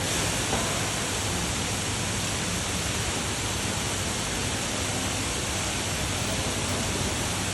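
Steady rush of water from an indoor decorative waterfall, falling water splashing into its pool as an even hiss.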